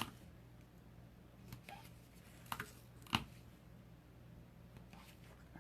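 A few light taps and clicks of card stock and paper being handled on a craft table, the loudest about three seconds in, over a faint steady hum.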